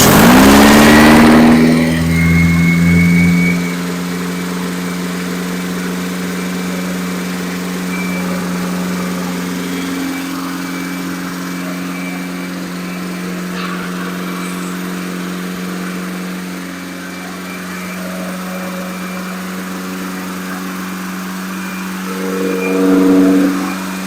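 A freshly rebuilt engine that has just fired up, its pitch climbing quickly as it catches. It is loudest for the first few seconds, then settles to a steady fast run for the camshaft break-in, with a brief rev a little before the end.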